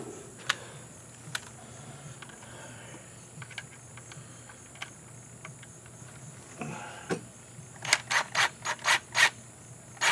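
Ratchet wrench working fasteners on an outboard motor: a few light clicks, then near the end a quick run of about seven rasping ratchet strokes. Crickets chirp steadily behind.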